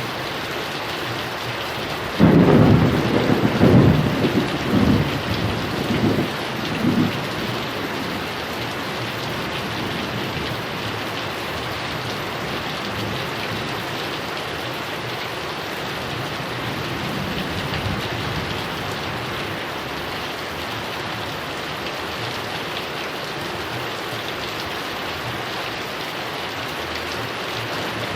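Heavy rain falling steadily, with a clap of thunder about two seconds in that rolls on in several rumbling surges for around five seconds before fading back into the rain.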